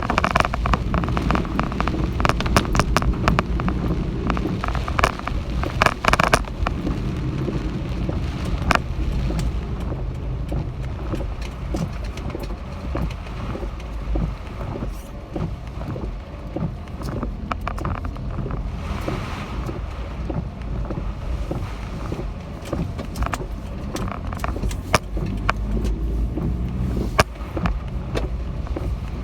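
Typhoon winds buffeting the microphone with a heavy low rumble, with many sharp clicks and taps, denser in the first several seconds and again near the end.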